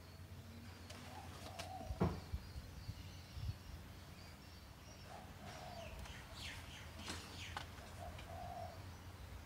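Birds calling, with several short coos and a few high chirps, over a faint steady low hum; a couple of soft knocks about two and three and a half seconds in.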